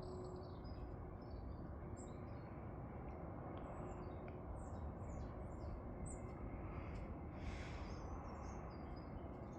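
Several small birds chirping in short, high calls scattered throughout, over a steady low outdoor background noise.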